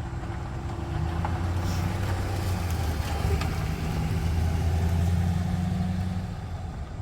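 A motor vehicle's engine running with a low, steady hum that grows louder from about a second in and fades again near the end.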